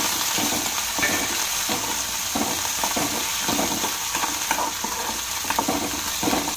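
Small onions, garlic, ginger and curry leaves sizzling in hot oil in a metal kadai, stirred with a metal spoon that scrapes and knocks against the pan over and over. The sizzle holds steady under the frequent spoon scrapes.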